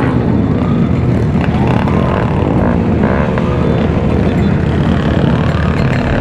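Loud, steady wind and road noise from riding a mini bike in traffic, with a whine that rises and falls several times.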